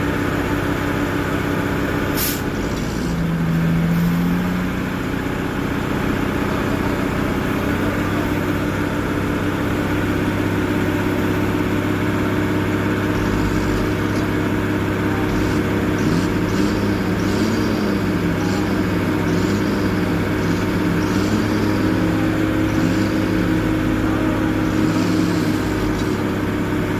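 Heavy diesel truck engines running steadily during a vehicle recovery, with a short sharp sound about two seconds in. In the second half, a rising-and-falling sound repeats about once a second over the engines.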